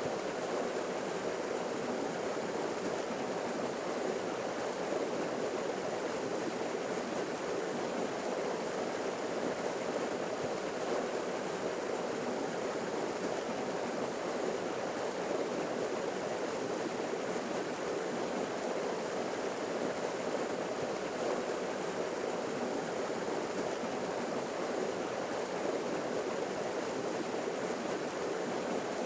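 Forest waterfall: falling water rushing in a steady, unbroken roar.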